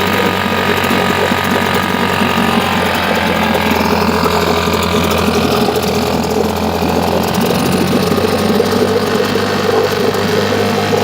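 British Seagull 102 4 hp single-cylinder two-stroke outboard motor running steadily, its note shifting a little midway. It is running well on its first start after a year laid up.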